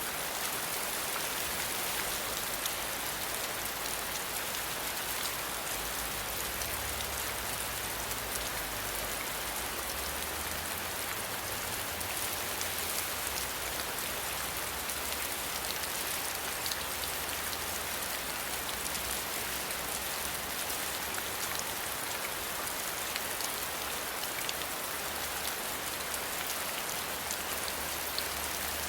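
Steady rain falling, an even hiss with many fine scattered drop ticks and a faint low rumble underneath.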